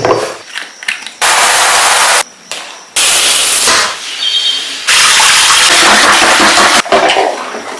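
Water spraying hard from a shower head in three bursts, each starting and stopping abruptly, the longest about two seconds, with small knocks and clatter between.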